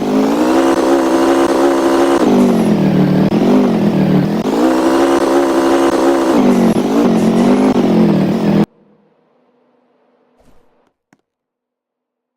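An engine revving up and down over and over, its pitch dipping and climbing about every two seconds, then cutting off abruptly about nine seconds in, leaving near silence with a few faint clicks.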